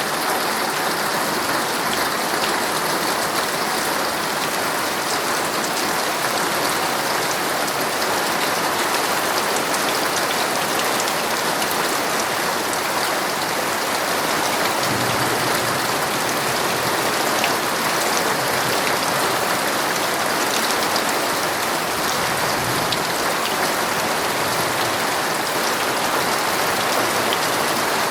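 Heavy rain falling on a tent, heard from inside: a steady, dense patter with scattered individual drop hits.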